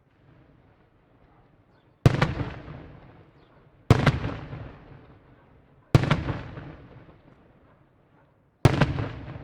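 Fireworks shells exploding overhead: four loud bangs about two seconds apart, each followed by a rolling echo that dies away.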